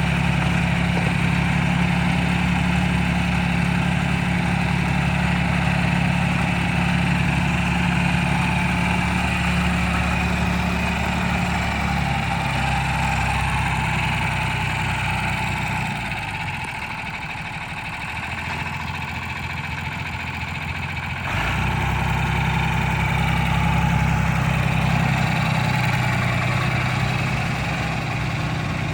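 John Deere 4020 tractor engine running steadily at idle, with a quieter stretch of several seconds past the middle before the full sound returns abruptly.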